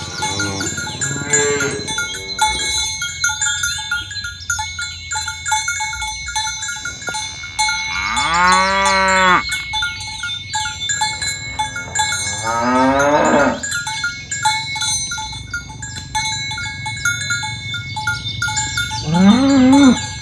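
Cows mooing several times, the longest and loudest call about eight seconds in, its pitch rising and then falling. Bells clink steadily underneath.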